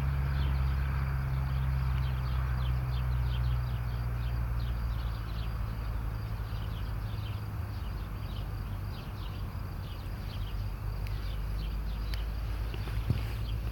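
Outdoor ambience: a steady low rumble with a continuous run of short, high-pitched chirps, several a second, from small birds or insects.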